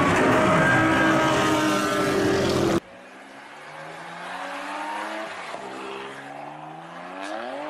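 Racing cars at full throttle passing on a circuit, loud and dense, cut off abruptly about three seconds in. After the cut, a BMW M4's twin-turbo straight-six accelerates away. Its pitch rises, dips briefly, then climbs steeply near the end.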